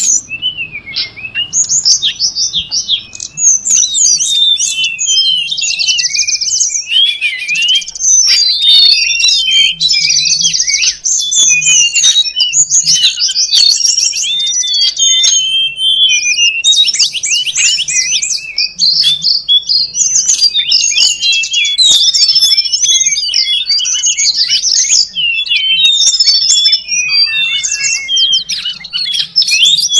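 Tledekan gunung birds calling noisily in a bird-trapping lure recording: dense, fast, high chirps and twitters, several overlapping, going on almost without a break.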